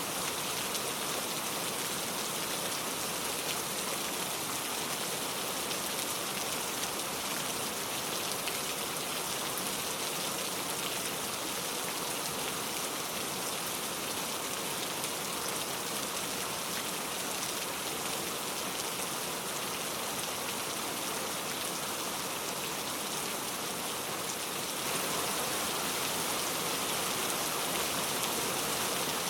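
Steady heavy rain with no thunder, an even hiss of falling water that gets slightly louder about 25 seconds in.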